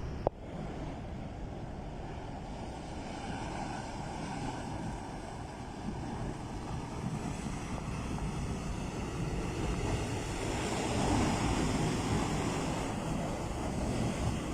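Steady rushing roar of floodwater, swelling somewhat in the last few seconds, with one sharp click just after the start.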